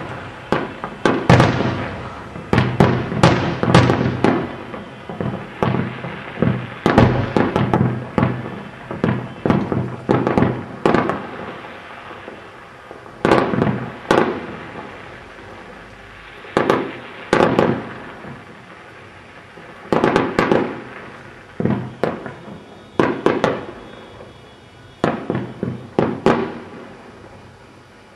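A fireworks display: shells bursting in irregular volleys of sharp bangs, each trailing off in an echo. The bangs come thick and fast for the first dozen seconds, then in spaced clusters with short lulls between.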